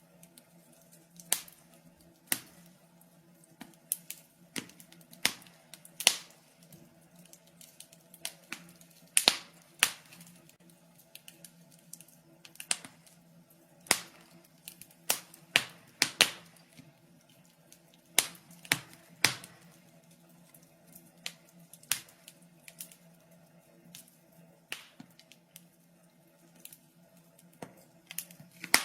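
Wood fire crackling in a fireplace: irregular sharp pops and snaps, a few loud, over a faint steady hum.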